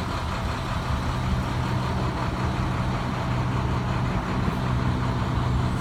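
International MaxxForce DT diesel engine of a 2013 DuraStar 4300 box truck idling, a steady low hum.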